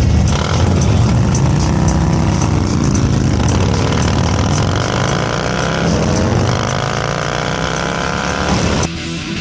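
Motorcycle engine accelerating: its pitch climbs steadily, drops back briefly for a gear change, then climbs again. It cuts off suddenly near the end.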